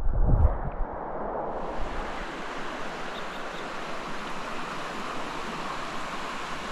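Steady rushing noise of running water, brightening about a second and a half in.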